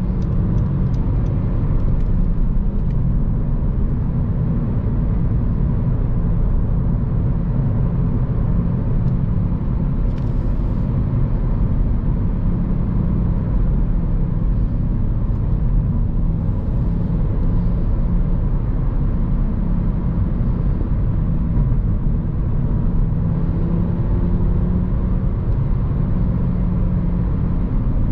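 Honda Civic Si car driving, its engine and road noise heard from inside the cabin as a steady low rumble. The engine note changes pitch a few times with shifts and changes in speed, and there are two brief faint hisses.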